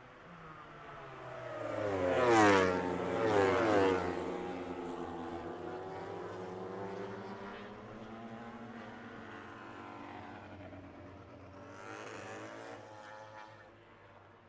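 MotoGP race motorcycles passing at speed, two in quick succession about two and four seconds in, their engine pitch dropping sharply as each goes by. Engine noise follows at a lower level, with another bike passing fainter near the end.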